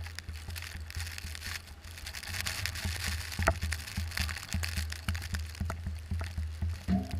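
Car driving through snow: a steady low rumble with scattered crunching and crackling of snow and slush under the tyres. Music starts near the end.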